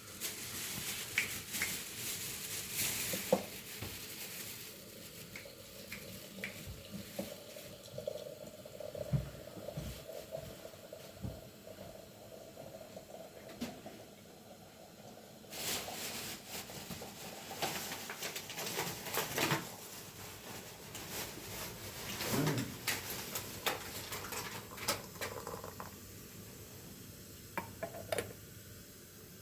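Cooking sounds: pots, dishes and utensils clinking and scraping now and then, with short rustles in between, busier in the second half.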